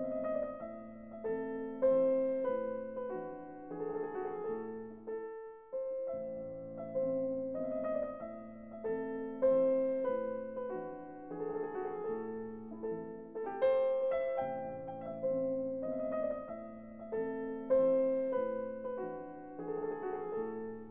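Background music played on piano: a calm run of notes that each ring and fade.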